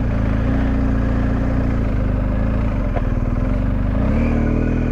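Motorcycle engine running at low revs in slow, stop-start traffic, a steady low-pitched drone that rises a little in pitch about four seconds in.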